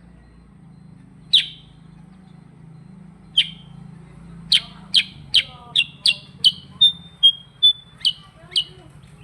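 Kutilang sutra (a bulbul) singing: two single sharp notes, then a fast rolling run of about a dozen loud, clear, downslurred whistles, a few of them short held notes, before it stops near the end. A faint low hum runs underneath.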